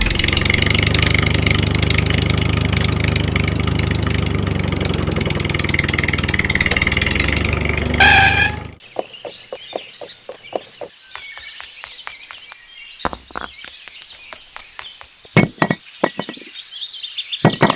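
A small motor running steadily, cutting off suddenly about nine seconds in. After it, birds chirp with scattered knocks and taps.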